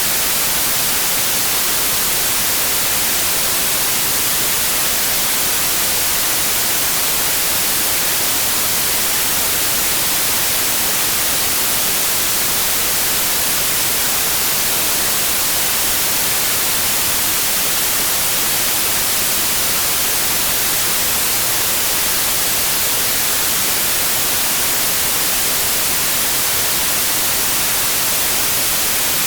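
Steady white noise: an even, unbroken hiss across all pitches, brightest in the high end.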